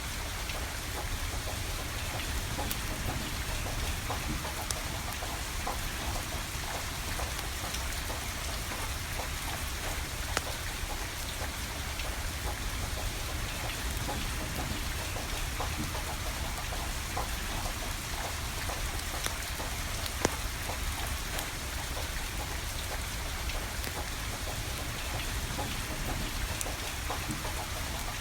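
Steady rain falling, with a few sharp pops and crackles from burning firewood scattered through it.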